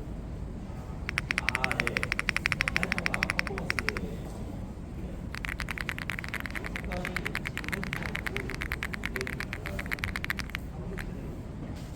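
Keyboard being typed on fast in two long runs of rapid key clicks, the second run longer. Faint background chatter runs underneath.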